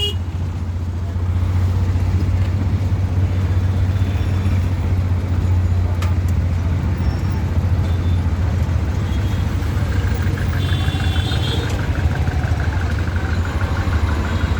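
Steady low rumble of a running vehicle in city traffic, with a faint higher whine joining about ten seconds in.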